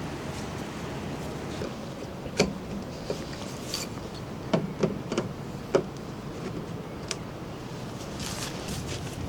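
Steady rushing noise of rain and a nearby waterfall, with about half a dozen sharp knocks and clicks through the middle and a brief rustle near the end.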